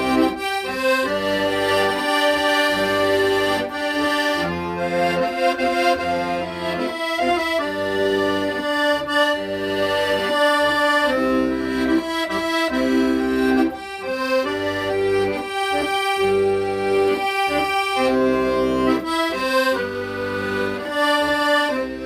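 Solo accordion playing a slow, sentimental melody over held chords and rhythmic bass notes.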